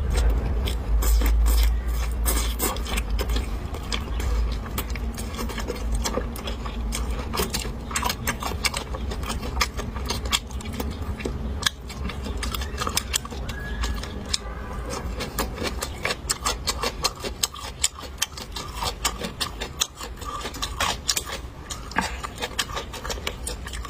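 Close-miked eating sounds: a person chewing food, with dense, irregular wet smacks and clicks from the mouth. A low rumble sits under the first few seconds.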